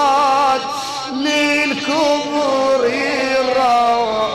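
A man chanting a mournful Iraqi Arabic lament, holding long ornamented notes whose pitch wavers and turns between the sung phrases.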